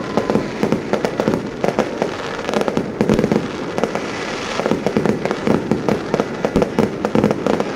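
Fireworks going off in a dense, unbroken barrage of bangs and pops.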